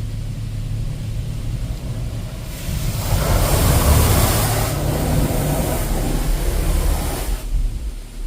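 Touch-free car wash spray jets sweeping over the car, a hiss of water on the body that builds a couple of seconds in, holds for about five seconds and then stops, over a steady low rumble of the wash machinery.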